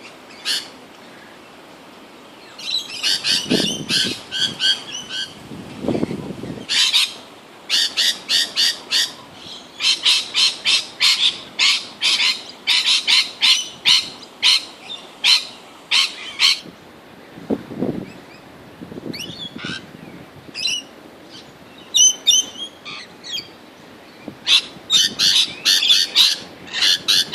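Lorikeets squabbling over nectar in a flowering Grevillea: bouts of rapid, harsh, shrill screeching calls with short lulls between them. A few low rumbles come in under the calls.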